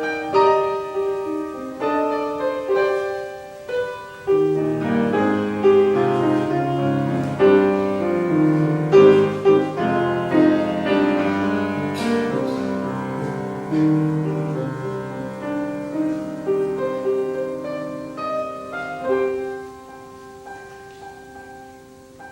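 Piano playing slow chords and a melody, softening and dying away near the end.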